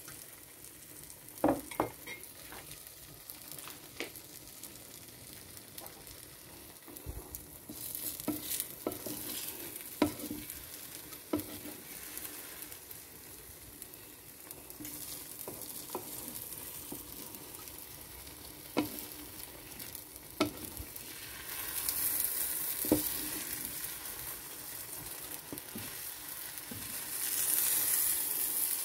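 Vegetable omelette egg frying in a pan with a soft sizzle, while a wooden spatula scrapes and taps against the pan every few seconds. The sizzle grows louder in the last third.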